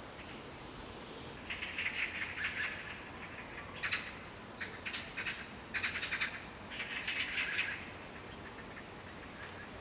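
Birds chattering in several quick, rapidly pulsed trilling bursts, one after another.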